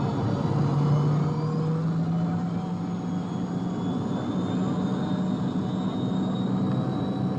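Jet airliner cabin during the takeoff climb: steady engine noise and rushing air, with a low engine hum and a faint high whine that rises slowly.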